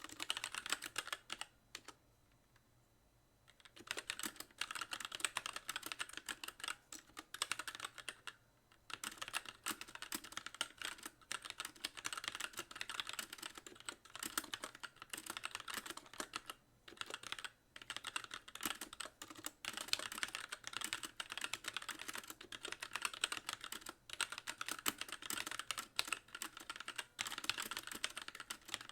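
Typing on a Magicforce mechanical keyboard with light Gateron Clear linear switches and stock keycaps: a rapid run of key clacks, each key bottoming out. The typing stops for about two seconds near the start, then resumes at a steady pace with brief gaps.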